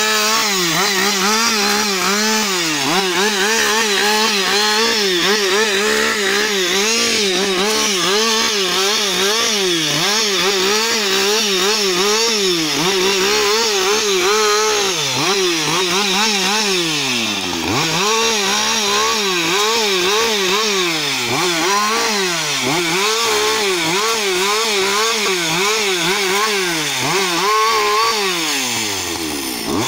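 Husqvarna 560 XP two-stroke chainsaw running at high revs while cutting wood. Its engine pitch rises and falls continuously as the chain loads up, and drops sharply twice, about halfway through and near the end.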